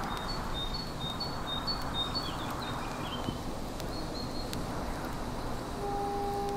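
Outdoor ambience: a steady rushing background with a small songbird repeating a high two-note chirp for the first couple of seconds and briefly again around four seconds in. Near the end a steady low tone sounds twice, first for about a second, then briefly.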